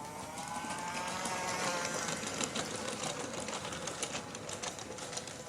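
Polar Express toy train's small electric motor whining as it picks up speed, then running steadily, with its wheels clicking rapidly over the track joints.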